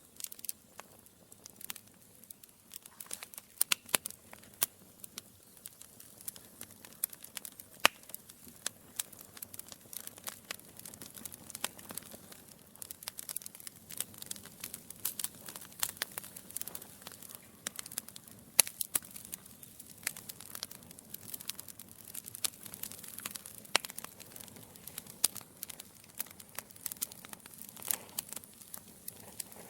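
Wood logs burning in a fireplace, crackling with dense, irregular sharp pops over a soft hiss, a few pops louder than the rest.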